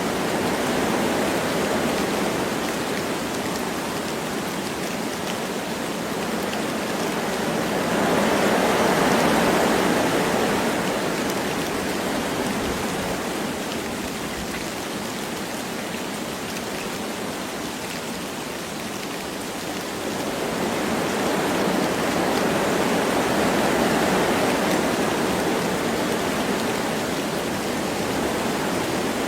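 Wind blowing through forest trees with light rain, a steady rushing that swells twice in gusts.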